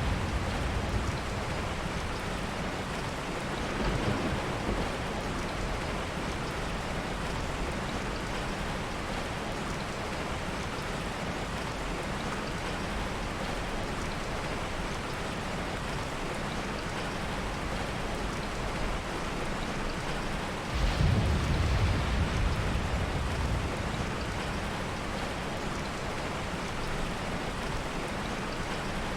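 Steady heavy rain, with a low rumble of thunder that comes in suddenly about two-thirds of the way through and fades over several seconds; a fainter rumble swells briefly early on.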